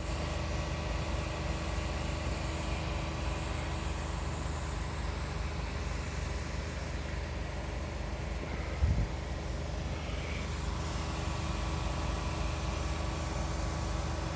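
Snowmaking equipment running with a steady, engine-like hum and a few constant tones. A single thump comes about nine seconds in.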